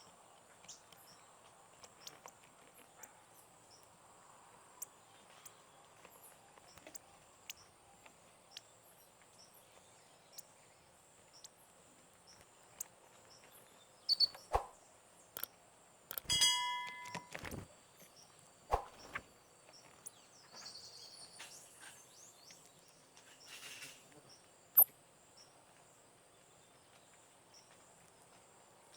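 Forest ambience: a steady high insect buzz with a regular pulse, scattered short sharp bird chirps, and one louder call about halfway through.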